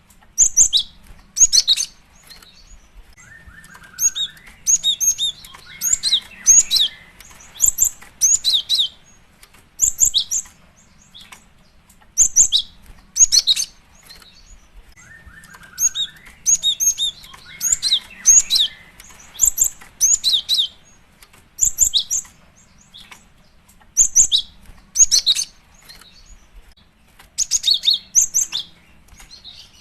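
Female cinereous tit (gelatik batu) calling: clusters of short, sharp, high-pitched chip notes, two to four in a row, about every one to two seconds, with a fainter lower sliding note twice. The same sequence repeats about every twelve seconds, as a looped lure call meant to draw a male.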